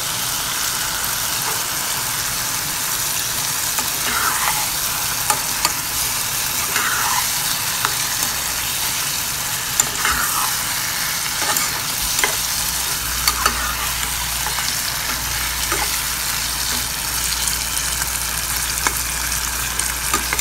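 Chicken pieces sizzling steadily in hot oil with onion, tomato and spice paste in a pot as they are browned in the masala. A spatula stirs them, scraping and now and then clicking against the pot.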